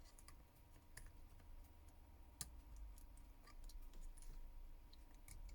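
Faint, irregular small clicks and taps from handling a smartphone's parts and small repair tools during reassembly, over a low steady hum.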